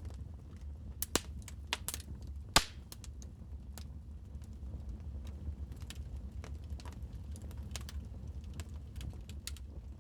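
Wood fire crackling in a fireplace: irregular sharp pops and snaps over a steady low rumble, with the loudest pop about two and a half seconds in.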